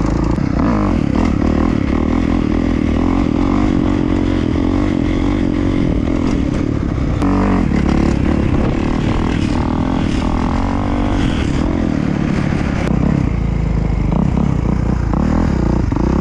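Off-road motorcycle engines running hard and revving, the pitch rising and falling as the bikes ride, with some rattle and clatter.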